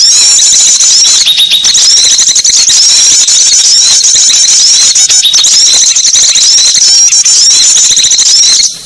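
Loud, dense chorus of many small songbirds chirping and twittering in quick high notes, a bird-trapping lure recording meant to draw small birds in. It breaks off briefly near the end.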